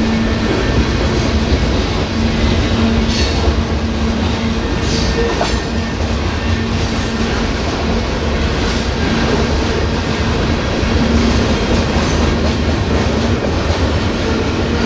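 Freight cars of a BNSF manifest train rolling steadily through a grade crossing: a continuous rumble and clickety-clack of steel wheels on the rails, with a few brief high-pitched screeches in the first half.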